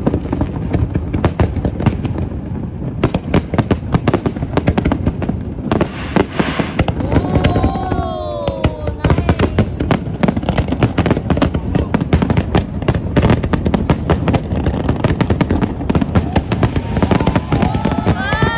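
Fireworks display: a rapid, continuous barrage of bangs and crackles over a low rumble.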